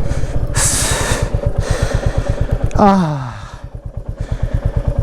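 Off-road vehicle's engine running slowly at low revs, its firing pulses steady throughout. A brief hiss comes about half a second in, and a short call falling in pitch comes about three seconds in.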